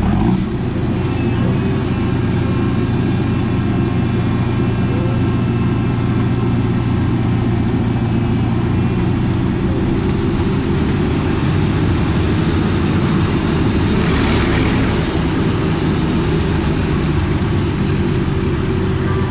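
Steady low rumble of the Casey Jr. Circus Train ride train rolling along its track, with a short clatter at the start and a brief rush of higher noise about fourteen seconds in.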